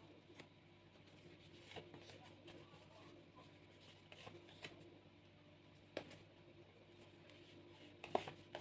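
Faint handling of tarot cards: a few soft, scattered clicks and rustles over quiet room tone, the sharpest about six seconds in and a short cluster near the end.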